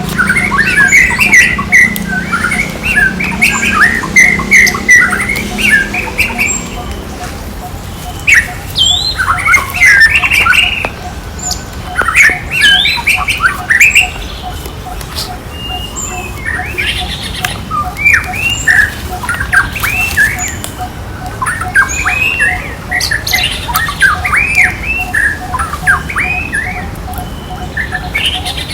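Many short, high-pitched animal squeaks and squawks in quick succession, some rising and falling in pitch, over a faint steady ticking.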